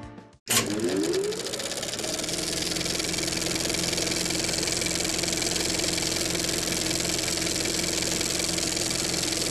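Off-road motorcycle engine cutting in about half a second in with a quick rev rising in pitch, then running steadily.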